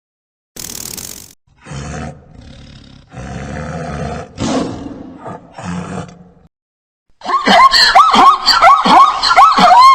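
A brief hiss, then a few short, low, rough animal calls. From about seven seconds in, a cat meows loudly and rapidly over and over, each meow bending in pitch.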